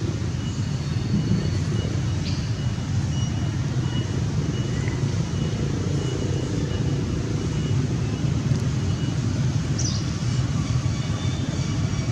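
Steady low rumble of background noise, with a faint steady high tone and a couple of short high chirps, about two seconds in and near the end.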